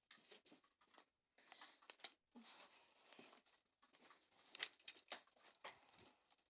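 Near silence in a small room, with faint rustling and scattered light clicks, as of small objects being handled.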